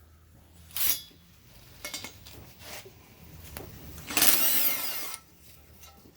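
Tool work on a V8 engine on a stand: a short metallic clink about a second in, a few small clicks, then a burst of about a second from a power tool about four seconds in.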